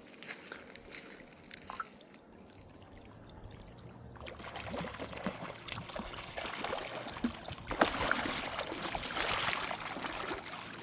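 Water splashing and churning as a hooked trout is played and brought in at the surface. The splashing builds from about four seconds in and is loudest near the end, after a few light clicks in the first seconds.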